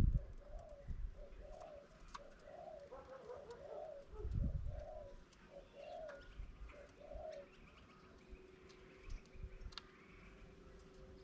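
A dove cooing in a steady run of short coos, about one every half-second, stopping about seven seconds in, with faint chirps from other birds and a couple of low thumps.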